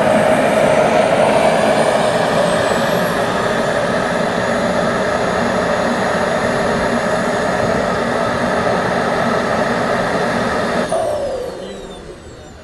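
RC Fouga Magister scale model's jet turbine running with a steady rush and high whine, then shut off about eleven seconds in: the noise drops away suddenly and the whine falls in pitch as the turbine spools down.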